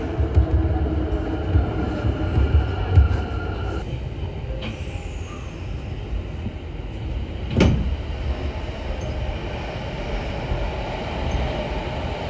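Kintetsu train running, heard from inside the car: a steady low rumble with heavy thumps from the wheels during the first three seconds, and a single sharp click about halfway through.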